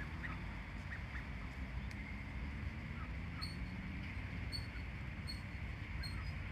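A bird's short high-pitched peeps, four of them about a second apart starting a little past halfway, over fainter soft chirps and a steady low rumble.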